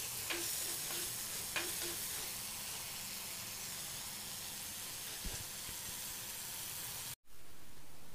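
Chopped shallots, mustard seeds and curry leaves sizzling steadily in hot oil in a clay pot as they sauté. A steel spoon stirs them, scraping and tapping against the pot a few times in the first two seconds. The sound cuts out for an instant near the end.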